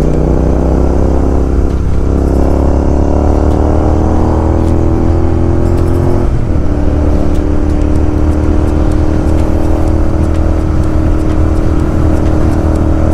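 Royal Enfield Continental GT 650's parallel-twin engine running through its aftermarket Gursewak exhaust while riding, the pitch climbing as it pulls. About six seconds in the pitch drops with an upshift, then climbs again.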